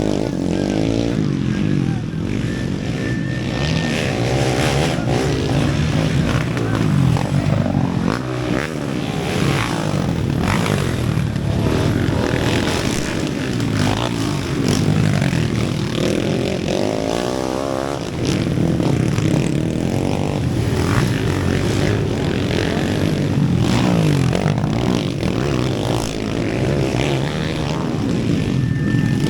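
Underbone motorcycles racing on a motocross track, their engines revving up and down with the throttle, several at once with pitches crossing one another.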